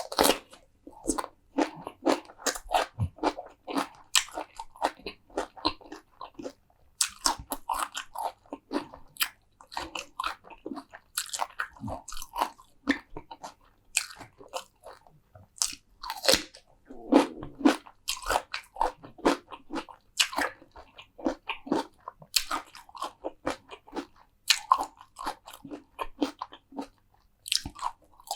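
Close-miked eating: crunchy bites and chewing, a dense run of sharp clicks with a brief pause about six seconds in.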